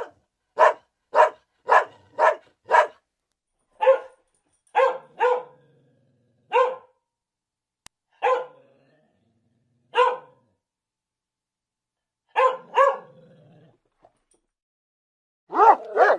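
A dog barking: a quick run of barks about half a second apart, then slower single and paired barks with pauses between them, and a denser flurry of barks near the end.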